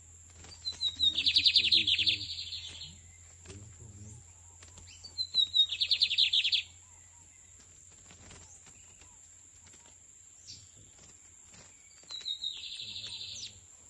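Lined seedeater singing three phrases. Each opens with a few quick high notes and runs into a fast, buzzy trill. The first two phrases come close together, and a shorter third comes near the end.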